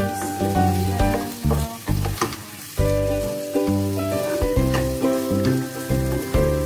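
Diced pork and onions sizzling in a frying pan, stirred with a wooden spatula, under background music with a steady bass rhythm.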